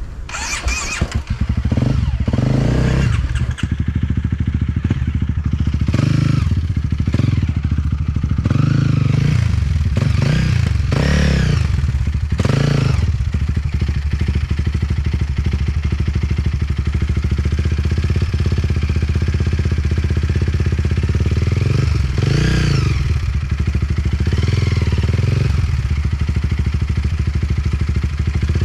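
Enduro dirt bike engine revving up and down over and over, loud from about a second in, as the throttle is worked hard.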